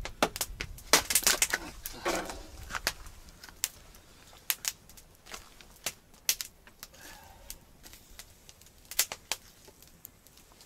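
Small wood campfire crackling: sharp, irregular pops and snaps, thickest in the first couple of seconds, then sparser.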